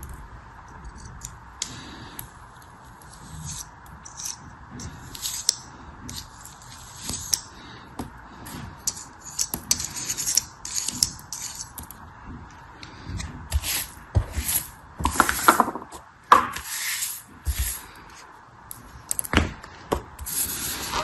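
Irregular crisp scrapes and crunches of a soft, crumbly craft material being cut, pressed or crushed by hand, busiest and loudest a little past the middle, over a steady faint hiss.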